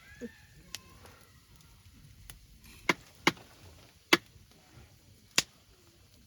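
Cooking utensils knocking against cookware: a handful of short, sharp knocks spaced irregularly, the loudest about four seconds in.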